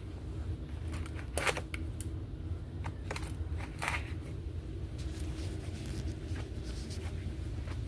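Steady low hum of a large store interior, with scattered light clicks and taps.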